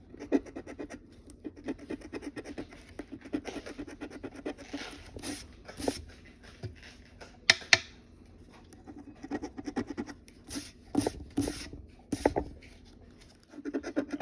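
Scratch-off lottery ticket being scraped in quick back-and-forth strokes, in bursts with short pauses between them.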